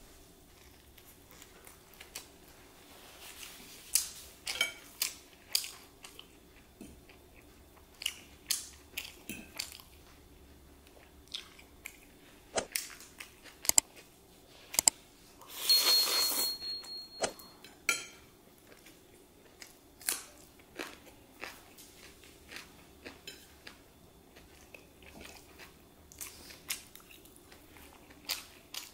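Close-miked eating sounds: wet chewing and lip smacks from fried chicken leg and spicy chow mein noodles, in a string of short clicks. A little past halfway comes one louder, noisy slurp of about two seconds as a forkful of noodles is sucked in.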